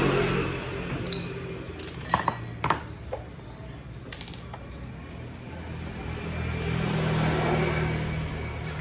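Yamaha Nouvo scooter engine running with a steady low hum that swells a little near the end. Several light metallic clinks of tools sound between about two and four seconds in.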